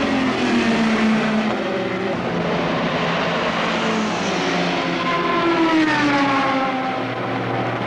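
GT race cars' engines at speed on a circuit, steady and loud, with one engine note falling in pitch about five seconds in as a car goes past.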